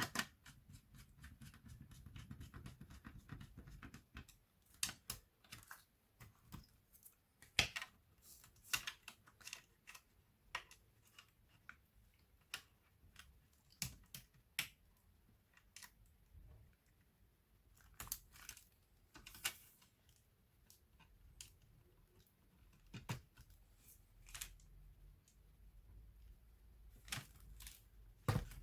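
Irregular small clicks and taps of plastic and metal laptop parts being handled during disassembly, with a soft rustle of handling in the first few seconds.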